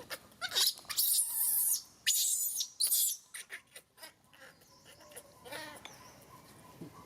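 Macaque screaming: a run of loud, shrill shrieks over the first three seconds, then a shorter wavering call about six seconds in.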